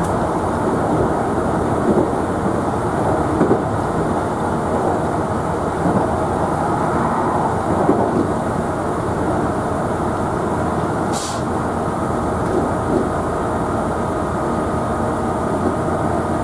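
Running noise inside a Meitetsu 5300-series electric train car moving along the track: a steady rumble of wheels on rail with a faint hum, light knocks now and then, and a short hiss about eleven seconds in.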